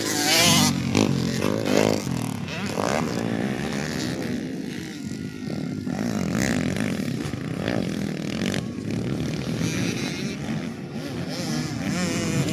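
Several motocross bikes racing, their engines revving up and down in pitch as the riders work the throttle around the track.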